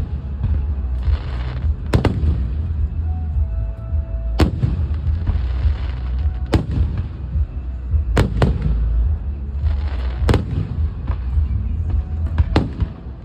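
Aerial fireworks shells bursting: about eight sharp bangs, one to two seconds apart, with two coming in quick pairs near the middle and near the end, over a steady low rumble.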